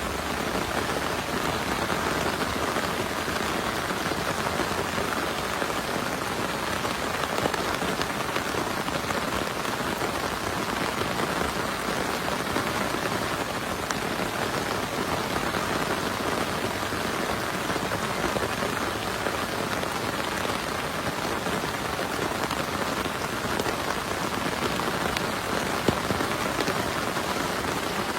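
Heavy rain falling steadily, an even hiss of drops with no let-up, and one sharper hit near the end.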